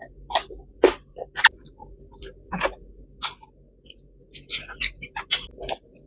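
Close-up eating sounds of a person chewing food: irregular wet smacks and clicks of the mouth, several a second, with a few louder ones in the first second and a half.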